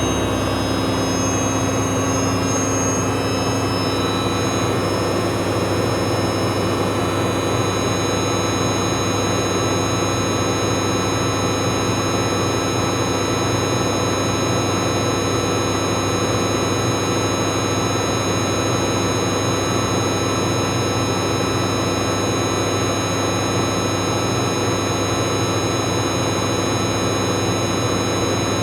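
Bauknecht Super Eco 7615 washing machine in its spin cycle: the inverter motor gives off a steady, high-pitched whine over the rumble of the spinning drum. The whine rises a little in the first few seconds, then holds steady at high speed.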